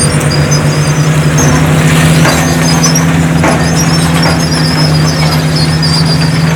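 Heavy diesel earthmoving machinery running steadily under load, with high squeaks and a few light clanks.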